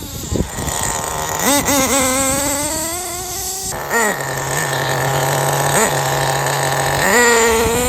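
HPI G3.0 3.0cc nitro engine in an HPI Bullet 3.0 monster truck running, its revs rising and falling with the throttle, with quick climbs in pitch about one and a half, four and seven seconds in.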